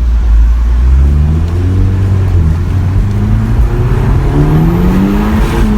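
Audi TTS turbocharged four-cylinder engine accelerating hard, revs climbing steadily in one long pull.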